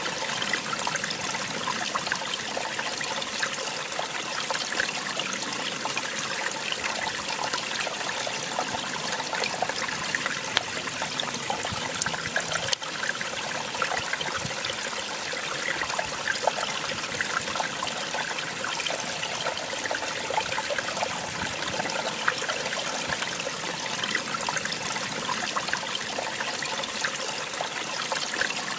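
A small waterfall splashing and trickling steadily, with the fine, busy texture of falling water and no let-up. A single brief click sounds a little under halfway through.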